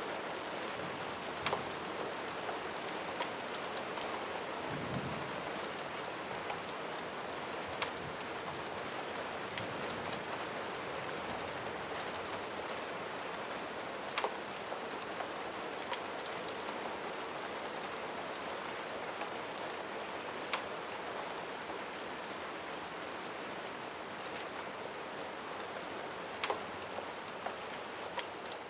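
Steady rain falling, with a sharp pop every few seconds over it.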